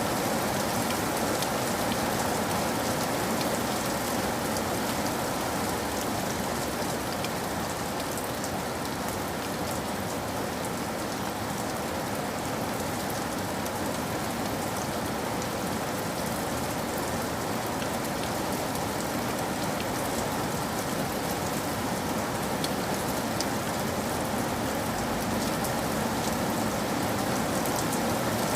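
Steady rain falling, a constant even wash with fine taps of individual drops throughout.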